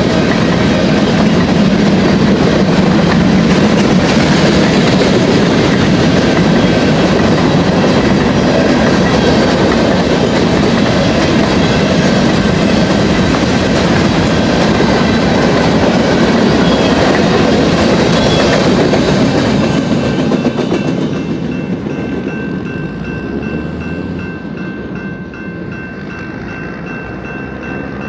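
BNSF empty grain train of covered hopper cars rolling past, its wheels clattering over the rail joints. The noise is loud and steady, then begins to fade about twenty seconds in as the train moves away.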